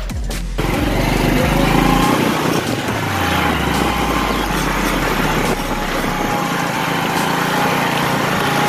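Motorcycle engine running steadily, after background music cuts off about half a second in.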